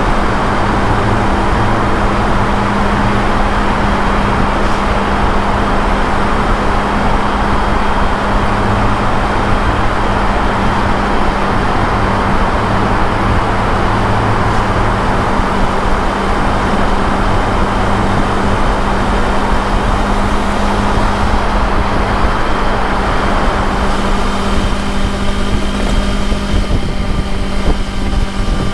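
Motorcycle engine running steadily at highway speed, with loud wind and road rush over a constant engine hum. Near the end the rushing eases and the engine's tone comes through more clearly.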